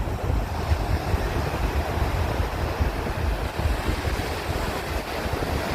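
Sea waves washing, with wind buffeting the microphone in a low, gusty rumble.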